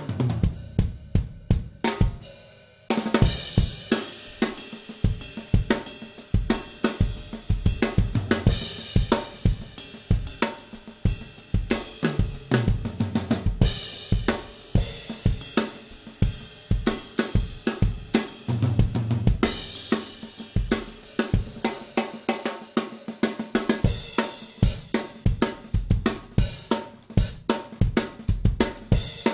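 Solo drum kit playing on a Gretsch Renown Purewood hickory-shell kit: snare, bass drum and toms with hi-hat and cymbals in a steady groove. The playing thins to a ringing decay about two seconds in, then comes back in full.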